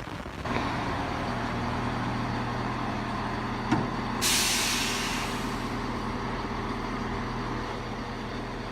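Class 170 Turbostar diesel multiple unit standing at the platform, its engines running with a steady low hum that steps up about half a second in. About four seconds in there is a click, then a loud hiss of air from the brakes that fades over a couple of seconds, as the train readies to depart.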